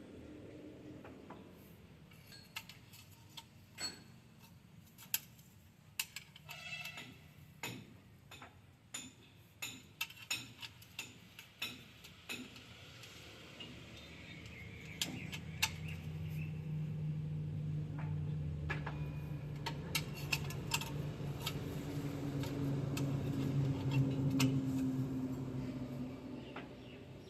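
Scattered sharp metallic clinks and taps, like hand tools striking metal parts, with a low engine hum that comes in about halfway, swells, and fades near the end.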